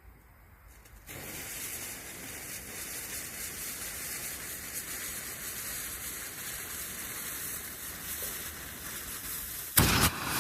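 Klasek Čmoudík smoke bomb burning with a steady hiss that starts about a second in, with a brief louder rush near the end.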